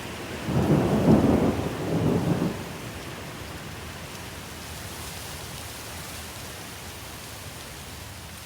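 A roll of thunder for the first couple of seconds, then the steady hiss of rain.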